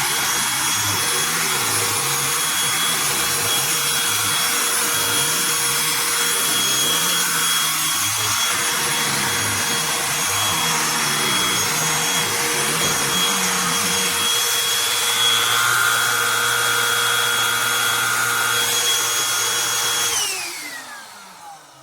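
Cordless handheld vacuum running steadily while cleaning a carpeted stair. About twenty seconds in it is switched off, and its whine falls in pitch as the motor spins down.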